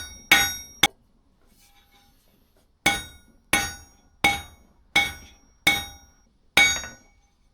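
Hammer blows on steel on an anvil, each strike sharp and ringing: a few quick blows, a pause of about two seconds, then six steady blows about two thirds of a second apart. The steel is too cold to work.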